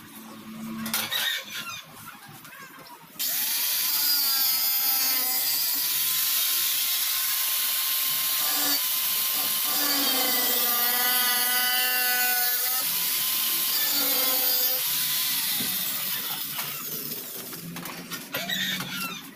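A handheld power tool starts abruptly about three seconds in and runs loud and steady, its pitch sagging and recovering as it takes load, then winds down near the end. A few knocks come before it.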